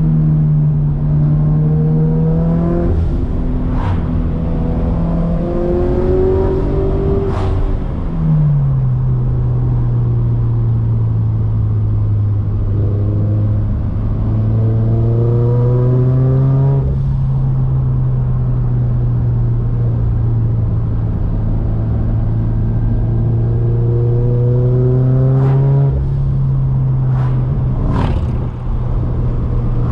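Turbocharged Scion FR-S's flat-four engine under hard acceleration. The revs climb again and again, and each climb is cut off by a sharp short break before the next pull.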